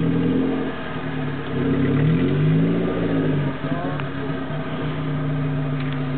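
Suzuki Samurai 4x4's engine revving under load as its wheels spin in mud, throwing spray. The revs rise and fall twice in the first few seconds, then hold steady.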